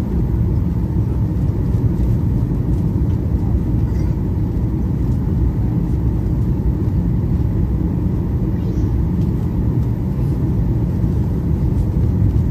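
Steady low rumble of a Boeing 737-800's engines and airflow, heard inside the economy cabin from a rear seat.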